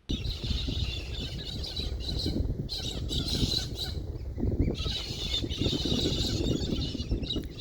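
Many birds chattering and squawking together in a dense, ongoing chorus, over a constant low rumbling noise.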